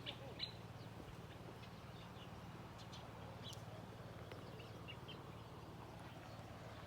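Faint, scattered short bird chirps over a steady low rumble, with two sharp clicks in the first half second.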